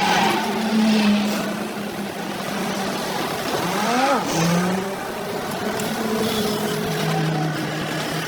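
An engine running with a wavering pitch, revving up and dropping back sharply about four seconds in.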